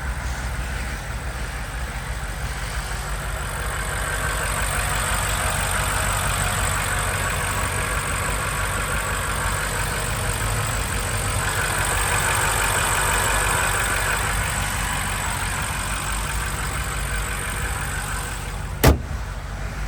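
2021 BMW M5's 4.4-litre twin-turbo V8 running steadily, with a continuous rush of noise that slowly swells and eases. A single sharp click comes about a second before the end.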